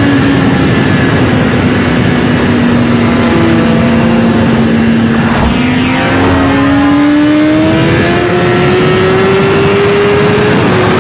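A vehicle engine running at road speed over road and wind noise, its pitch steady at first and then climbing gradually as it accelerates through the second half. About five and a half seconds in, another vehicle passes with a quick falling pitch.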